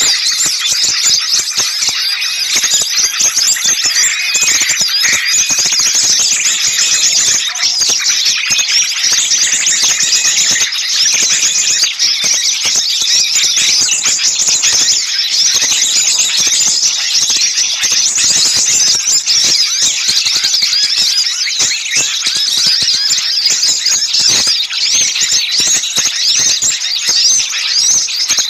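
A noisy chorus of many small songbirds calling at once: sharp, high-pitched chirps and chatter overlapping without a break, the agitated commotion used to lure small birds in.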